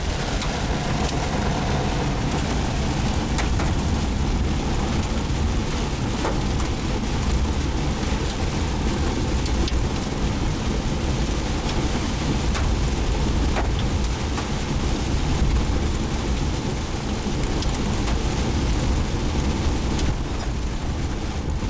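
A car being driven fast, heard from inside the cabin: a steady low rumble of engine and road with a haze of wind noise, and scattered light ticks.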